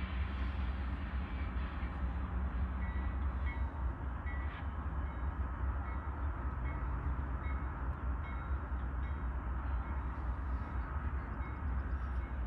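Union Pacific freight train running with a steady low diesel rumble, with short high-pitched squeaks recurring every second or so.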